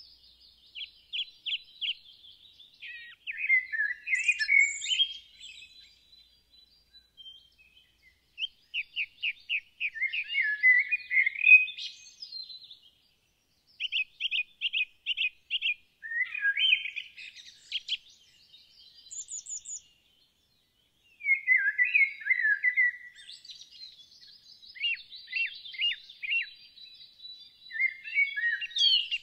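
Songbirds singing: phrase after phrase of rapid trills and chirps, with short pauses between them.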